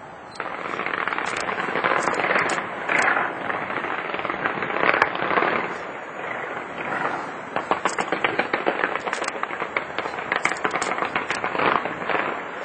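Fireworks display: dense, continuous bangs and crackling of aerial fireworks, starting about half a second in, with quick strings of sharp pops through the second half.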